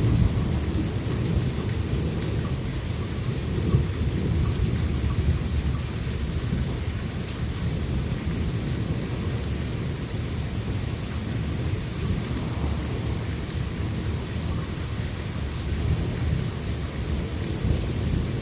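Thunderstorm: steady rain under a continuous low rumble of rolling thunder, with a few slightly louder swells.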